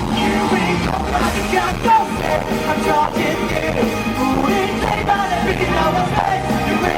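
Live pop-rock band music with a male voice singing, played loud through the concert sound system.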